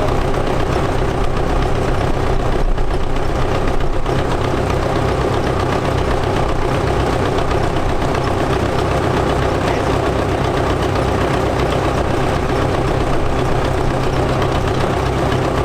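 Vintage tractor engine running steadily at an even speed, with no change in pitch or load.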